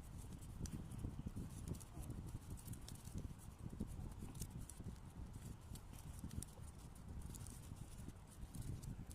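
Paper being handled and folded by hand: irregular soft knocks with brief crinkly clicks.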